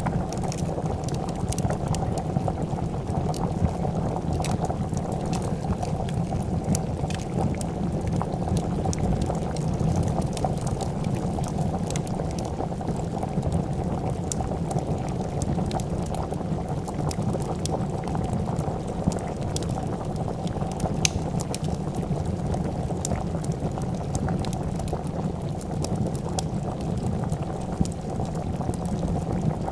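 A pot of soup boiling steadily, a dense continuous bubbling, with sparse sharp crackles from a wood fire scattered through it.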